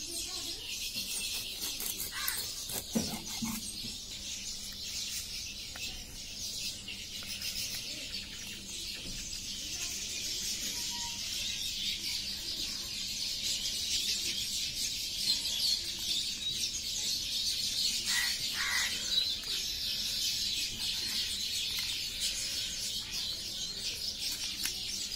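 A dense chorus of small birds chirping continuously, a little louder in the second half. A couple of short knocks sound about two to three seconds in.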